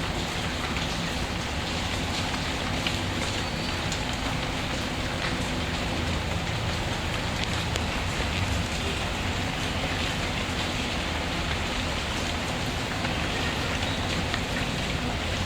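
Steady rain falling, with small ticks and crackles from a fireplace fire scattered through it.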